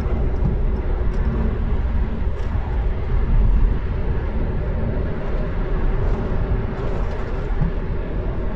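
Steady low rumble of a car driving on a snowy road, heard from inside the cabin: tyre and engine noise.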